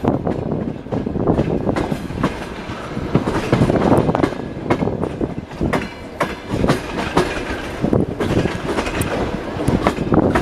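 Passenger train coach wheels clattering over the rails in quick, irregular knocks over a steady running rumble.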